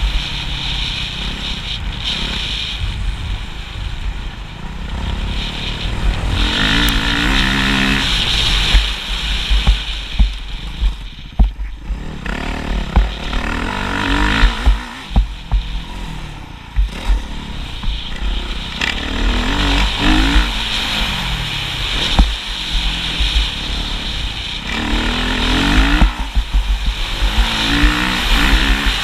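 Motocross motorcycle engine revving up and down again and again, its pitch rising and falling over and over, over a heavy low rumble.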